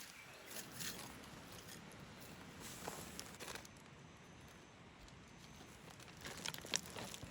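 Faint scattered rustles and clicks over a quiet outdoor background, a small cluster about a second in, a couple near three seconds in, and more near the end.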